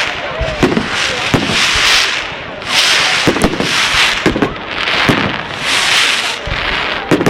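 Fireworks and firecrackers going off: a string of sharp bangs, about one a second, over a hiss that rises and falls.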